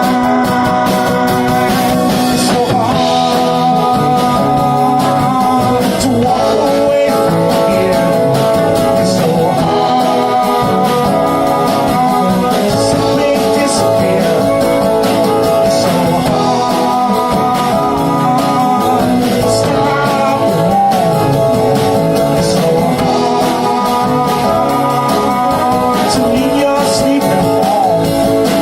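Folk band playing a song live, with guitar and singing.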